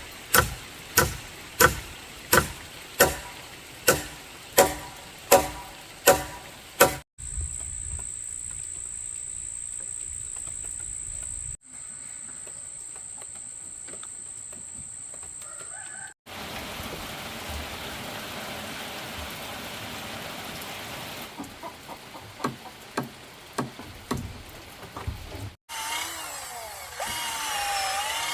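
About ten evenly spaced knocks, roughly one every 0.7 s, like wood being chopped or hammered, then a steady high-pitched whine for a few seconds, more irregular knocks later, and a rooster crowing near the end.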